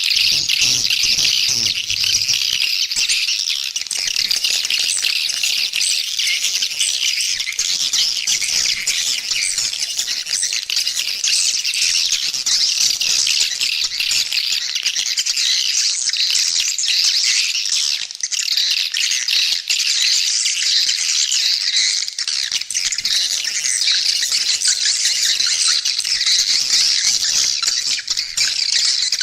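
Swiftlet call recording: a dense, unbroken chatter of high twittering swiftlet calls. It is the kind of lure sound played at swiftlet nesting houses to draw the birds in to roost and nest.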